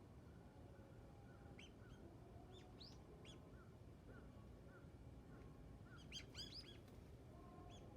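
Faint, short bird chirps: a few scattered notes, then a quick cluster of several chirps about six seconds in.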